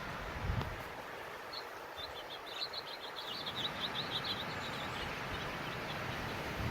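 Steady rushing of post-blizzard wind, with a soft low thump about half a second in. About a second and a half in, a small bird twitters a quick run of high chirps for about two seconds.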